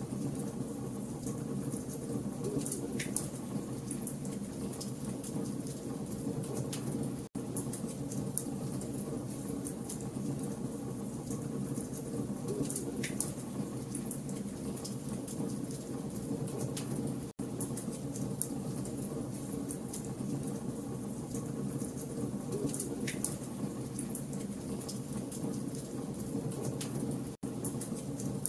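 Campfire logs burning, with a steady low rush of flame and frequent small sharp crackles and pops. The sound is a ten-second loop, with a very brief dropout about every ten seconds.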